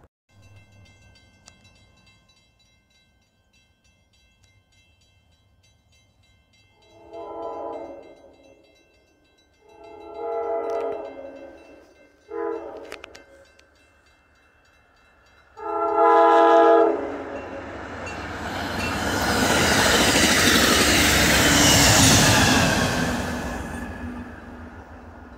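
Amtrak P42 diesel locomotive's horn sounding the grade-crossing pattern of long, long, short, long as the train approaches. The train then passes at speed in a loud rush of wheel and air noise that builds, peaks and fades near the end.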